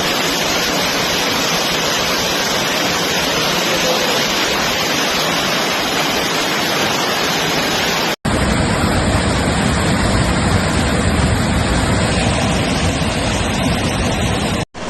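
Loud, steady rushing of water, typical of floodwater pouring through streets in torrential rain. About eight seconds in it cuts off abruptly and picks up again with a deeper rumble.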